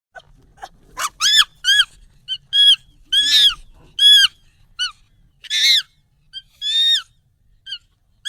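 Monkey calls sped up and pitched higher: a run of about a dozen short, high, arching squeals, starting just after silence and coming every half second or so.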